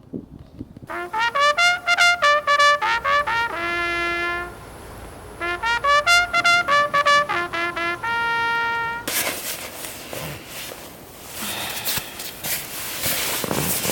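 A short trumpet melody of quick repeated notes with a few held notes, stopping about nine seconds in. After that come gusty wind noise and rustling.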